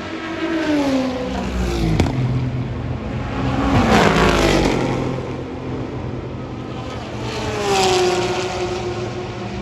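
Race cars passing one after another at speed, each engine note falling in pitch as the car goes by. The loudest pass comes about four seconds in, and there is a sharp crack about two seconds in.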